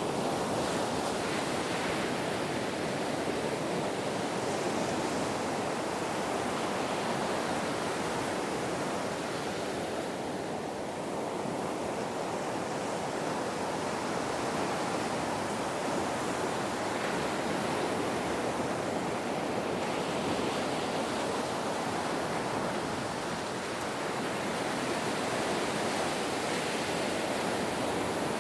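Ocean waves washing on the shore in a steady rush of surf, easing off slightly twice before building again.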